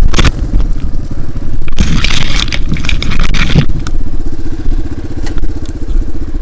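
Dirt bike engine running, broken by a sharp knock at the start and a burst of scraping and crashing about two seconds in as the bike's wheels slide out on a log and it goes down. After that, an engine putters evenly at idle.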